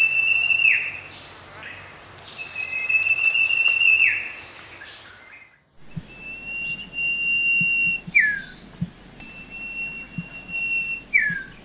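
Common iora calling: long, steady high whistles, each held for a second or two and ending in a quick downward slur, four times over. A short break about six seconds in separates two recordings.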